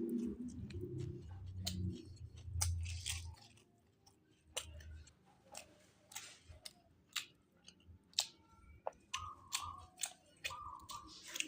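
A person chewing and eating fish close to the microphone, with many sharp wet clicks, smacks and small crunches. The first few seconds carry a louder low rumble, and a few short chirping tones come near the end.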